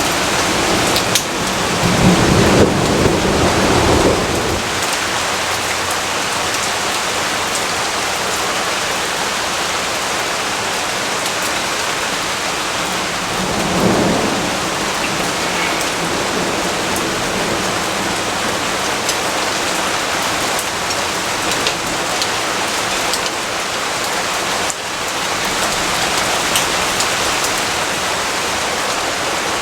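Steady rainfall hissing evenly, with a low rumble of thunder about two seconds in that lasts a couple of seconds, and a shorter, fainter rumble a little before the halfway point.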